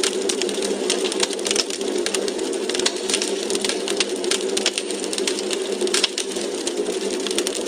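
Wood fire crackling in a fireplace: many irregular sharp pops and snaps over a steady rushing hiss.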